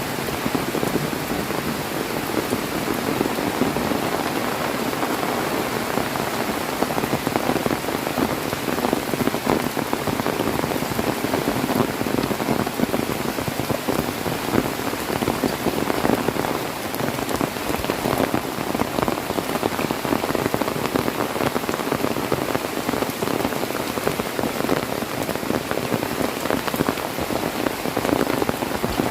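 Heavy rain pouring down steadily, a dense, unbroken patter of drops hitting surfaces.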